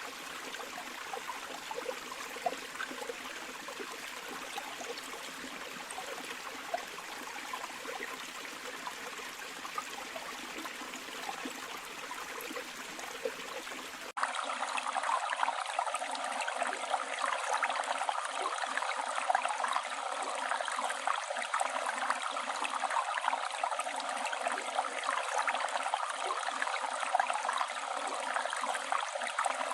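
Flowing river water, a steady rushing and babbling with no other sounds. About 14 seconds in it changes abruptly to a louder, brighter stretch of water with the deep rumble gone.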